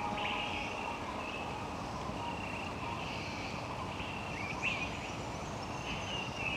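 Rainforest ambience: a steady hiss of background noise with repeated short, high chirping calls, some sweeping quickly up or down in pitch.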